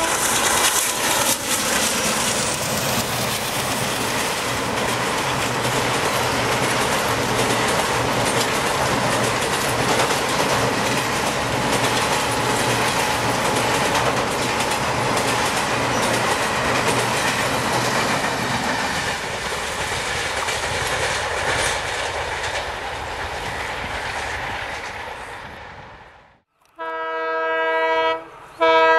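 Diesel-hauled train speeding past: its horn fades out in the first second, followed by a loud steady rush of wheels and coaches for over twenty seconds that cuts off suddenly. Near the end a diesel locomotive's horn of several tones sounds twice.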